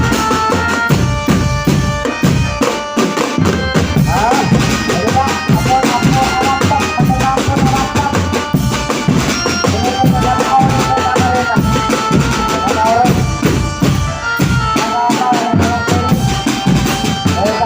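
Live jaranan-style East Javanese folk music: hand drums playing a quick, driving beat under steady ringing tones and a wavering high melody line.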